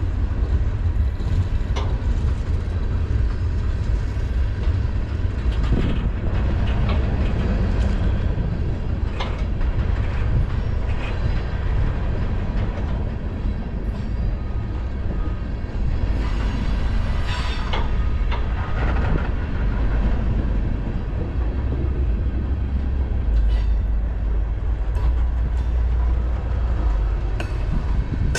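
Cars of a mixed freight train rolling past close by: a steady heavy rumble with wheels clacking and clanking over the rail, and a few brief wheel squeals.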